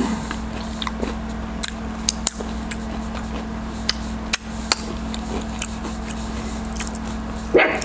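Close-miked chewing of a crispy breaded onion ring: scattered sharp crunches and wet mouth clicks over a steady low hum.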